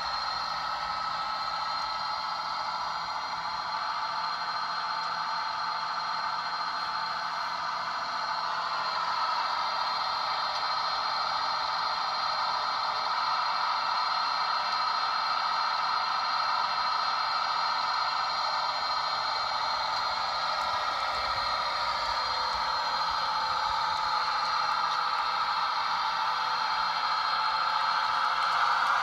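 Rapido RDC model's DCC sound decoder playing diesel railcar engine sounds through its small onboard speaker: a steady, thin sound with no deep bass, swelling a little partway through.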